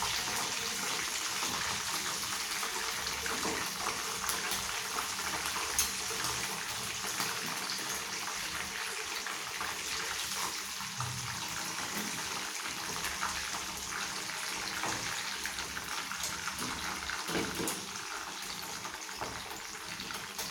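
Hot oil sizzling and crackling steadily as pieces of tongkol fish deep-fry in a pan.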